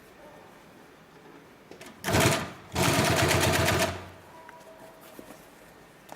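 Triple-feed post-bed twin-needle upholstery sewing machine running in two short bursts of fast stitching, about half a second and then about a second, with a rapid even stitch rhythm.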